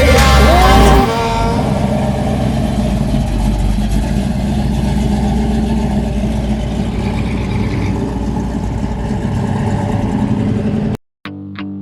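A car engine running steadily at idle for about ten seconds, after a song ends about a second in; it cuts off suddenly near the end and new music begins.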